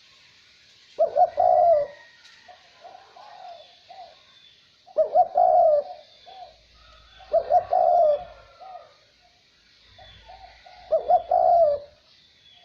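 Male red collared dove cooing: four loud coo phrases, one about every three to four seconds, with softer coos between them, over light wind.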